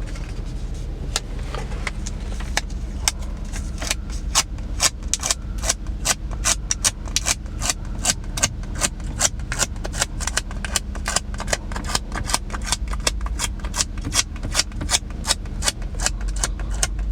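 Quick, slightly irregular light taps of a dust-removal sticker being dabbed on and lifted off a car touchscreen's glass. They are sparse at first, then about four a second from a few seconds in, over a low steady hum.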